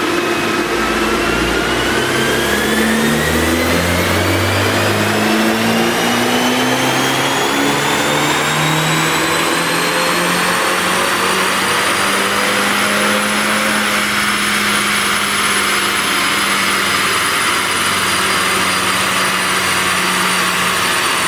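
BMW 428i's turbocharged 2.0-litre four-cylinder engine pulling hard under load on a chassis dyno. Its pitch and a high whine climb steadily for about fourteen seconds, then hold near the top.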